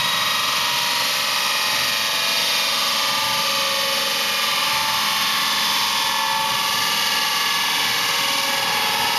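Honda NSX V6 exhaust through a lightweight stainless single-exit muffler with no catalytic converter, held at a steady engine speed. The note is high-pitched and steady, with a rushing hiss over it.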